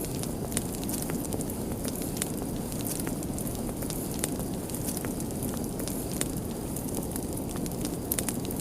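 Fireplace fire crackling: a steady low rush of burning with frequent irregular sharp pops and crackles.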